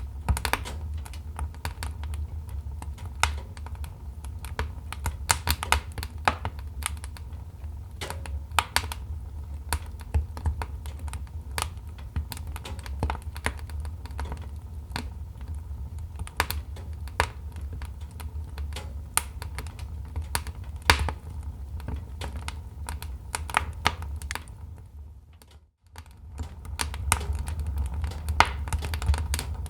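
Wood fire crackling: irregular sharp snaps and pops over a steady low rumble. The sound fades out briefly about four-fifths of the way through, then returns.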